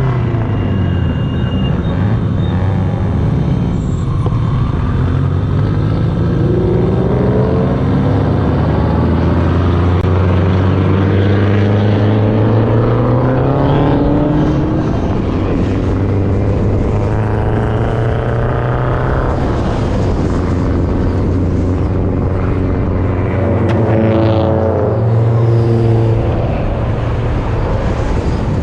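Car engine running under way, its pitch climbing as it accelerates and dropping back several times.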